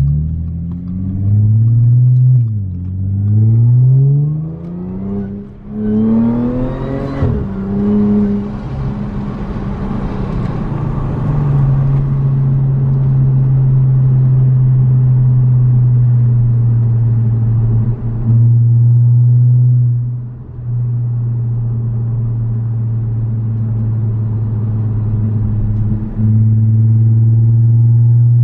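Supercharged 3.0-litre V6 of an Audi S5 with an X-pipe and muffler delete, accelerating hard: the revs climb three times, each pull broken by a quick gear change, in the first seven seconds or so. It then runs at steady revs for the rest of the time, with brief dips in level.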